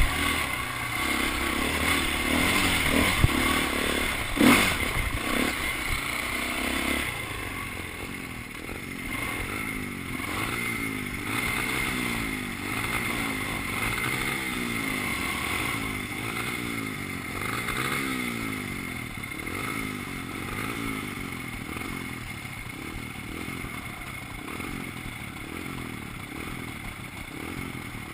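Dirt bike engine revving up and falling back again and again, with a loud knock about four and a half seconds in.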